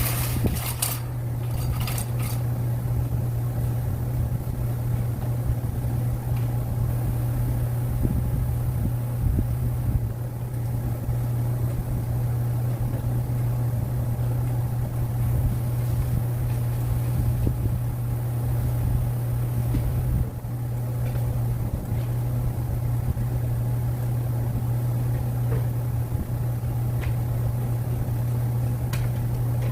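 A steady low machine hum with a low rumble underneath, unchanging throughout.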